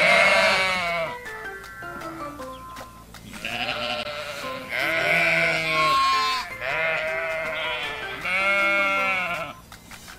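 Sheep bleating about five times, in long wavering bleats, over background music.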